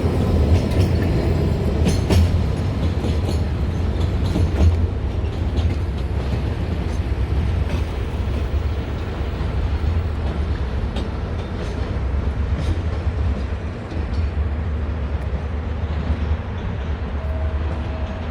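Train rolling through a station, a steady low rumble with wheels clicking over rail joints and points, the clicks thinning out after about five seconds.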